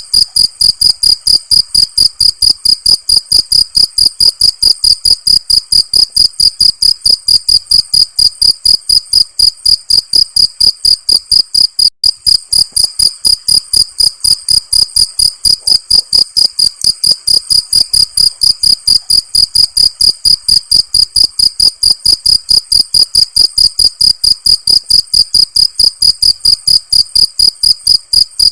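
A cricket chirping in a steady, even rhythm of about four high-pitched chirps a second, with one brief break about twelve seconds in.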